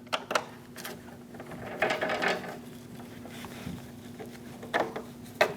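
Small metal and plastic parts of a door handle assembly being handled and fitted together by hand: light clicks and rattles, a short clatter about two seconds in and two sharp clicks near the end, over a faint steady hum.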